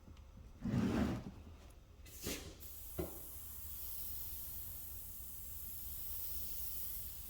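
Airbrush spraying paint, a steady high hiss that starts about two and a half seconds in. It is preceded by a dull bump and a couple of sharp clicks of handling.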